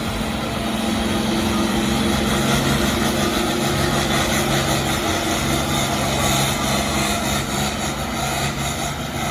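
Farm tractor engine running hard under steady load as it pulls a weight-transfer sled down the track, holding an even pitch throughout, then easing slightly near the end.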